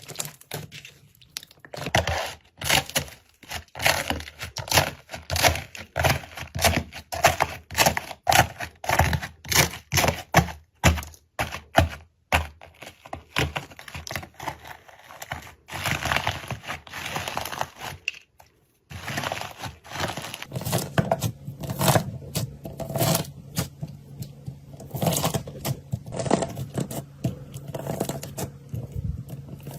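Slime being worked by hand, squeezed, stretched and poked, giving a dense run of sticky pops, clicks and crackles. It breaks off twice briefly, and a faint low hum sits under the second half.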